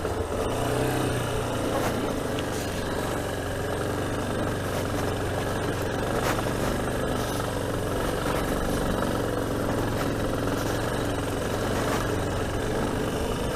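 Yamaha Ténéré 250's single-cylinder four-stroke engine running steadily while the motorcycle is ridden, with a little road and wind noise.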